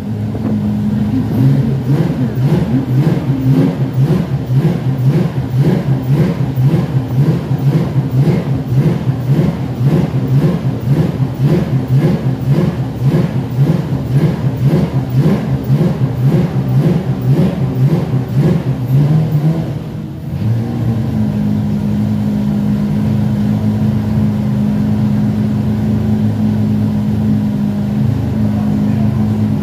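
Porsche 911 GT3 Cup (991) flat-six race engine revving up and down in quick short rises, about two a second. About twenty seconds in it drops back and settles into a steady idle.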